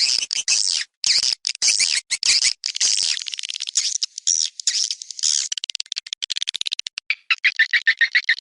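Swiftlet calls from a swiftlet-farming attraction recording: harsh chirps and twittering broken by fast runs of clicks, then from about seven seconds in an even run of chirps, about seven a second.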